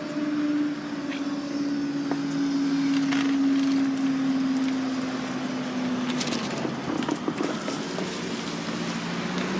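Class 700 Thameslink electric train moving off from the level crossing with a steady electric hum. The hum sinks slightly in pitch, shifts lower about six seconds in, and a few faint clicks are heard.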